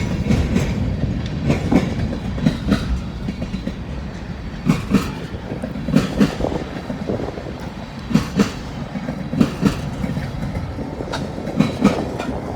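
Short freight train rolling past, its wheels clacking over rail joints in pairs every second or two over a low rumble.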